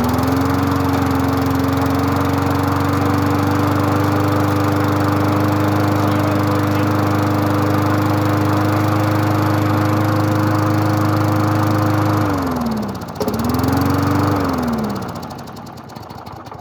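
Briggs & Stratton 4 hp push-mower engine running just after a pull start: it comes up to speed and runs steadily. Near the end it slows, picks up once briefly, then winds down to a stop.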